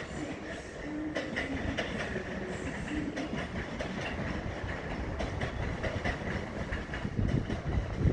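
Tokaido Shinkansen train running on the station tracks, with repeated wheel clicks over rail joints and a low rumble that grows about seven seconds in.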